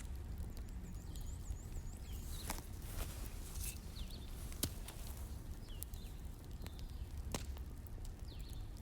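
Wood fire crackling: sharp irregular pops every second or so over a low steady rumble, with faint short bird chirps now and then.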